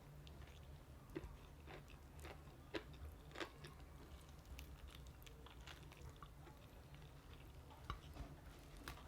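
Close-up chewing of crunchy fried chicken: a scatter of crisp crunches, most of them in the first few seconds, then only a few.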